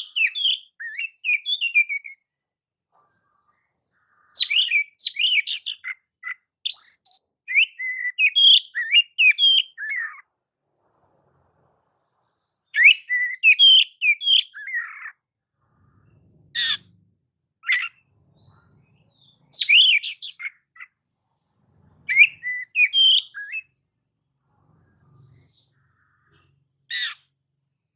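Oriental magpie-robin (kacer) singing: loud bursts of rapid, varied whistled notes of a second or two each, broken by short pauses, with a few single sharp calls between phrases.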